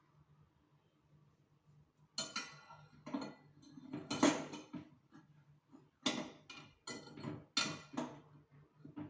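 Cutlery against a plate, clinking and scraping in a run of short, irregular bursts, over a low steady hum.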